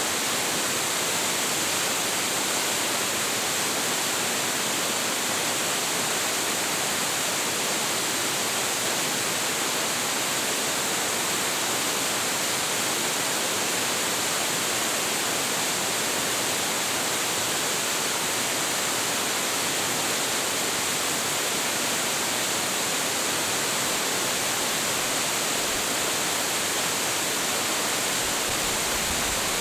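A large, high-volume waterfall, about 25 m tall, with water crashing onto rocks and a plunge pool. It makes a dense, steady hiss, strongest in the high frequencies, with no change in level.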